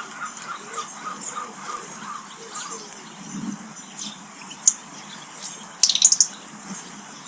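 Wild garden birds calling: a run of repeated calls, about four a second, fades out in the first three seconds, then a sharp high chirp and, about six seconds in, a loudest quick burst of high chirps.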